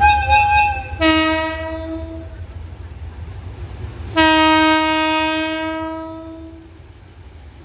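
Diesel locomotive air horn sounding: a short higher note, then two blasts on a lower note, the second one longer and fading out, over the steady low rumble of the idling engine.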